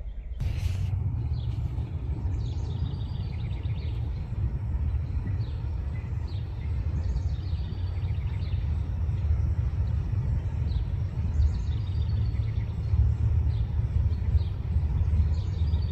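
A steady low rumble with small birds calling in short, high, repeated trills from about two seconds in.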